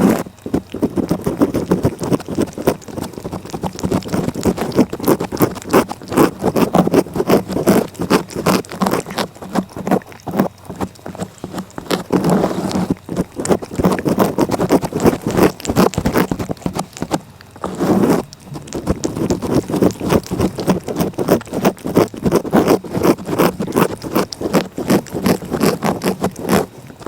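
A cat's rough tongue licking close against the microphone in rapid rasping strokes, several a second, with a short pause near two thirds of the way through.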